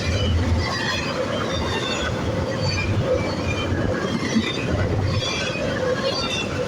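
Freight train cars rolling past: steady rolling noise with short, high wheel squeals and a low thud about once a second.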